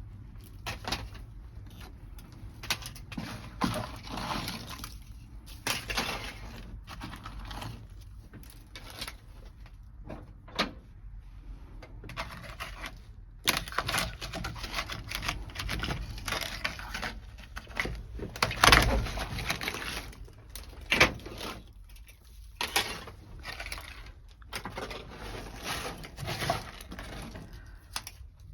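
Irregular cracking, knocking and scraping as brittle, dry-ice-frozen sound-deadening material is broken and pried off the car's sheet-metal floor, with one louder clatter about two-thirds of the way through.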